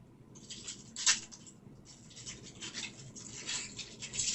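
Trading cards being handled: scraping and rustling as cards slide against each other, with a sharp snap about a second in.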